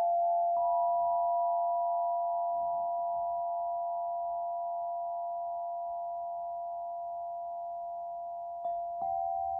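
Several pure, steady ringing tones from struck sound-healing instruments, sustained and slowly fading. A higher tone is struck in about half a second in, and fresh strikes come near the end.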